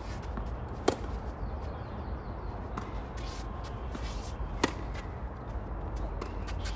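Tennis rally: a ball struck by rackets, with two loud close hits about a second in and near the five-second mark, and fainter hits from the far end of the court in between. Under it a steady low rumble.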